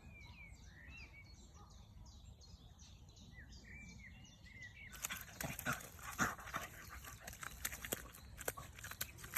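Tibetan Terrier puppy splashing and moving about in a mud puddle: from about five seconds in, a busy run of wet slaps and splashes, with the puppy panting. Before that there are only faint high chirps.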